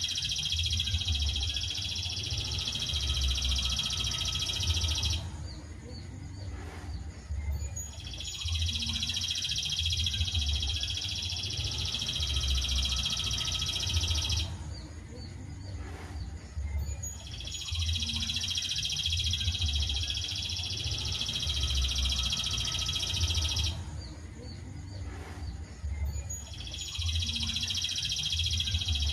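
Masteran birdsong training recording: a dense, high, fast trill in bursts of about six seconds, each followed by a pause of about three seconds. The pattern repeats evenly about every nine seconds, like a loop.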